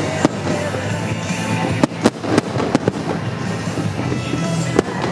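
Fireworks shells bursting in a series of sharp, irregular bangs, clustered about two seconds in and another near the end, over music playing.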